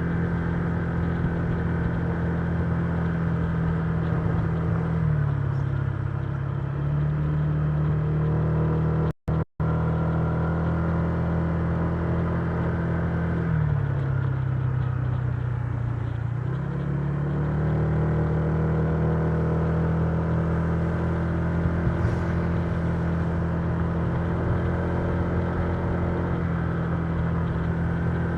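Honda Giorno 125 scooter's single-cylinder four-stroke engine running under way, its note easing down twice as the rider backs off and picking up again. The sound cuts out completely for two split-second gaps about nine seconds in.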